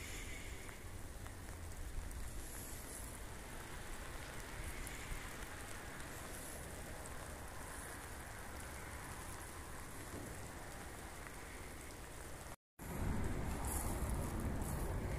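Steady rain, an even hiss. Near the end it cuts out for a moment and gives way to a louder, low rumble of wind on the microphone.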